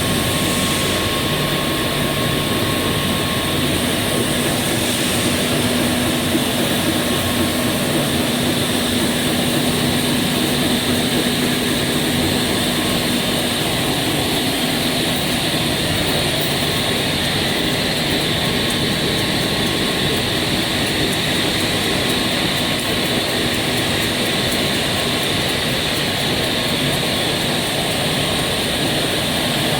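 EPE polyethylene foam sheet extrusion line running: a steady, loud machine noise with a faint hum.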